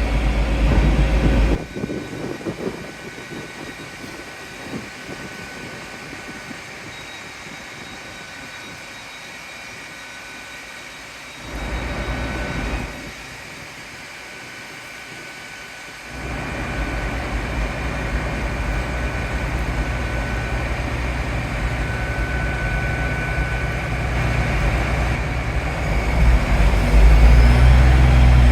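Mainline passenger train at the platform, with faint high-pitched squeaking tones. A low rumble comes briefly at the start and again about twelve seconds in. From about halfway, the train's engine sound builds steadily and is loud near the end.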